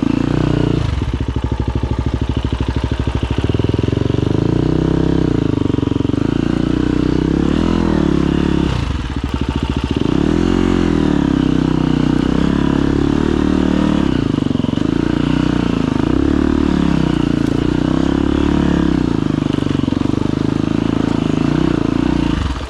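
Husqvarna FE250's single-cylinder four-stroke engine running under constantly changing throttle, the revs rising and falling, with a slow chugging stretch in the first few seconds. It cuts off abruptly at the very end.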